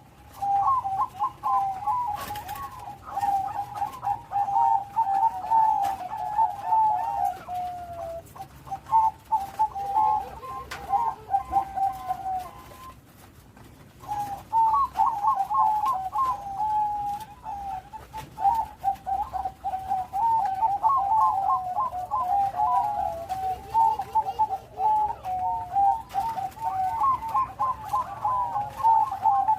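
Bangkok-strain zebra dove (perkutut) cooing in long, rapid runs of short, bubbling notes, with a brief pause about halfway through. It is singing actively in its full song pattern, with a big voice.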